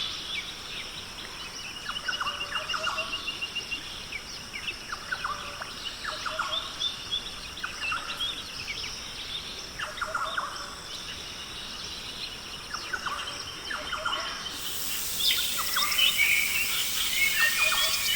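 Several wild birds calling: short downward-sweeping calls repeated every second or so, with rapid high trills. About fourteen seconds in, the sound switches abruptly to a denser, brighter chorus of bird song and chirps.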